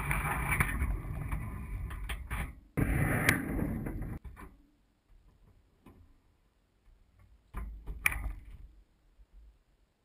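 Dishwasher spray water striking the housing of a GoPro Hero HD camera inside the machine, a muffled rushing wash with a low rumble that comes and goes: two long spells, a near-silent gap, then a short burst with a sharp knock about eight seconds in.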